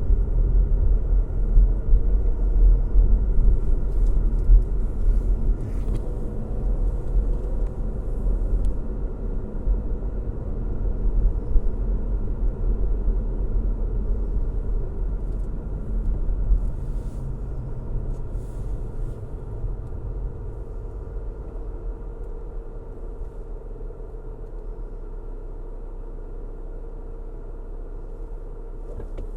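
A car driving: steady low road rumble with an engine hum. The sound grows quieter over the last third.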